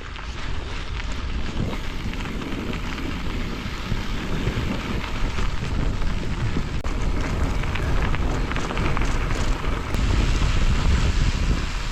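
Wind buffeting the microphone over the rumble of a gravel bike's tyres while riding, a steady rough noise with no clear strokes.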